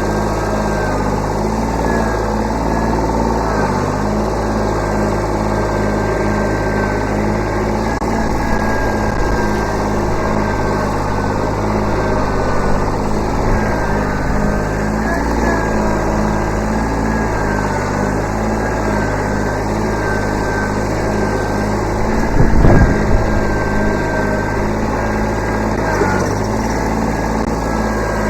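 Kubota B7100 subcompact tractor's three-cylinder diesel running steadily, its pitch dipping slightly now and then under load. A loud clatter of knocks sounds about three-quarters of the way through.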